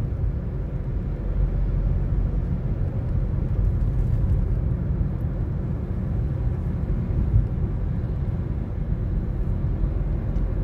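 Toyota Corolla driving: a steady low rumble of road and engine noise heard inside the car's cabin.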